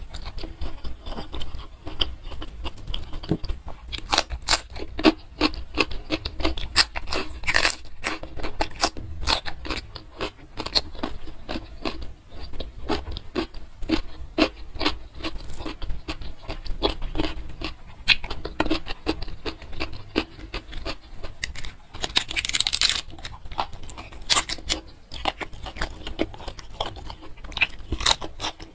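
Close-miked eating by hand: chewing and crunching with many quick crisp clicks and wet mouth sounds, and a louder spell of crunching about three-quarters of the way through.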